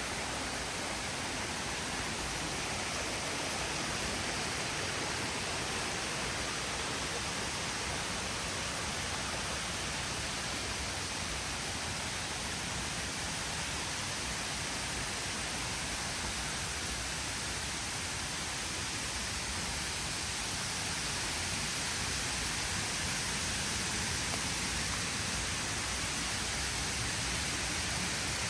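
Steady rushing of water from the waterfall cascades beside the trail, an even noise that holds without change.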